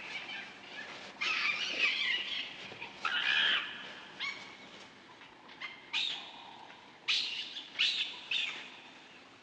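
Baboons giving a run of short, shrill cries, about half a dozen, each starting sharply.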